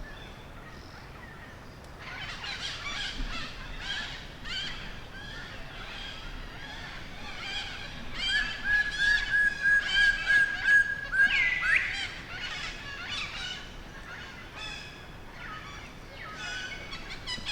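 Forest birds calling: many short, repeated high calls. One long steady whistle starts about eight seconds in, lasts about three seconds and ends in a quick upward sweep.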